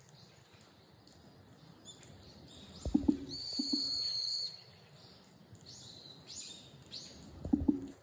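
Wild birds calling: a thin, high whistle lasting about a second a few seconds in, then several short, high notes falling in pitch. Twice, at about three seconds and near the end, a low knock with a brief low hum is louder than the birds.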